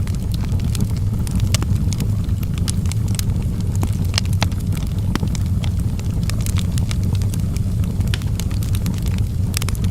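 Wood fire burning in a fireplace: irregular sharp crackles and pops scattered over a steady low rumble of the flames.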